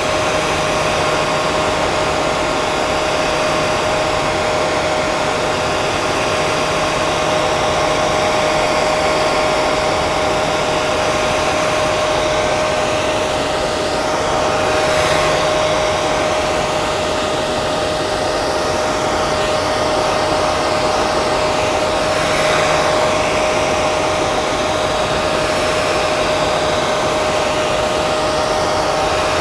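Hair dryer running steadily: a constant rush of air over a steady motor whine. The tone of the airflow shifts slightly twice, about halfway through and again a few seconds later.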